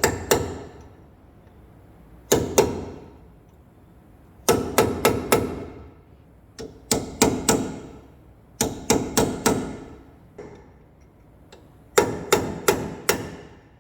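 Hammer striking metal while knocking a worn ball joint out of a truck's front suspension: ringing blows in quick bursts of two to five, with short pauses between the bursts.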